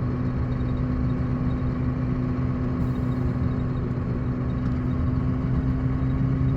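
Sanding truck's engine running with a steady low drone and road noise, heard from inside the cab while driving.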